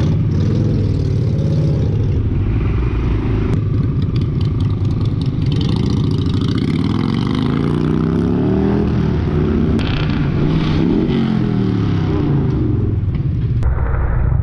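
Motorcycle engine running and revving, its pitch rising and falling repeatedly. The sound changes abruptly twice, about three and a half seconds in and near the end.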